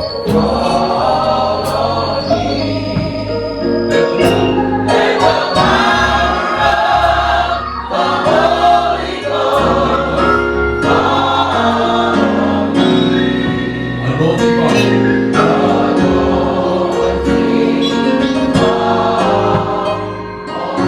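Gospel choir singing with band accompaniment.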